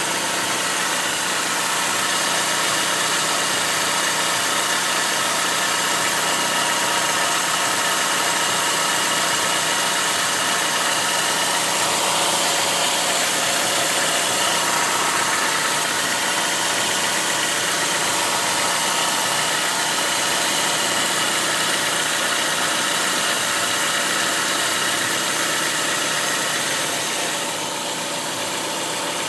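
Chrysler PT Cruiser engine idling steadily, heard close up from the engine bay, with a dense mechanical hiss over it; it gets slightly quieter near the end.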